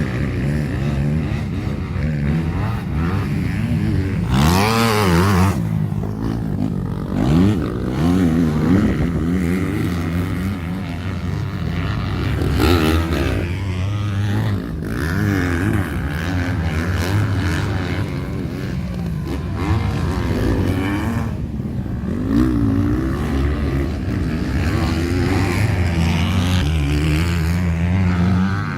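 Racing motorcycle engines running loudly, revved up and down again several times.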